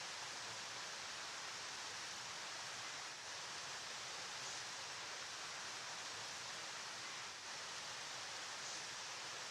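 Steady rushing of a flowing river, an even hiss with the energy weighted toward the high end and no distinct splashes or other events.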